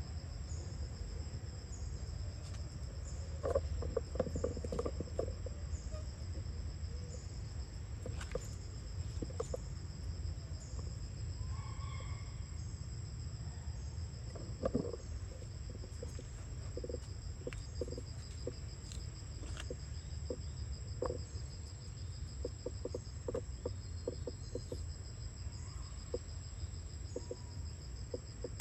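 Steady, high-pitched insect chorus with a regular pulsing, over a low background rumble, with scattered small clicks and rustles and one short high call about twelve seconds in.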